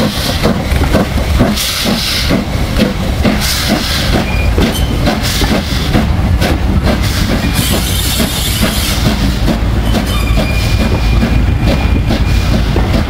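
Steam locomotive working, with its exhaust beats in a quick, even rhythm over steam hiss, and a louder rush of hiss about eight seconds in.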